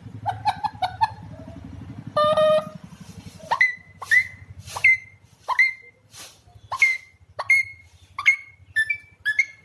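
Alexandrine parakeet calling: a few short notes, a longer call about two seconds in, then a string of about ten sharp, shrill calls, roughly one and a half a second, over a faint low hum.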